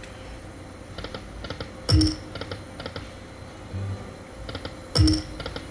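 Poker machine spins: two loud thumps, each with a short electronic tone, about three seconds apart, and quick runs of clicks between them.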